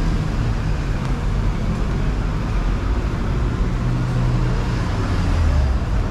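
Street traffic: cars passing with a steady low rumble. A deeper engine note stands out from about four seconds in and fades just before the end.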